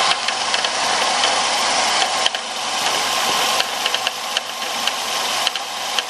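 2005 Ford Focus engine running, with an irregular clicking rattle from its aftermarket Dayco belt tensioner over a steady whine. The rattle is the sign of a failing tensioner, which the owner has traced with a mechanic's stethoscope.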